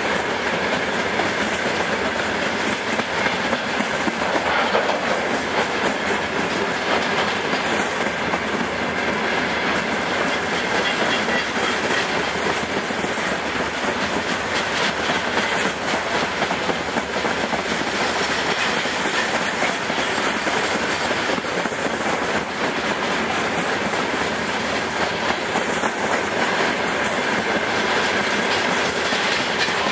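Freight train of open-top gondola wagons rolling past, wheels clicking over the rail joints in a steady stream of clickety-clack over continuous rolling noise.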